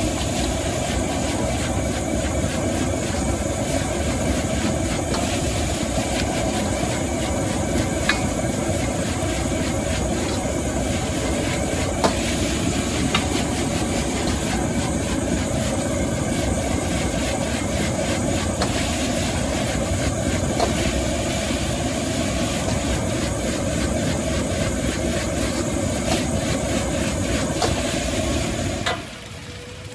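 High-pressure gas wok burner running with a steady roar, with a few sharp clicks over it. The roar cuts off suddenly about a second before the end.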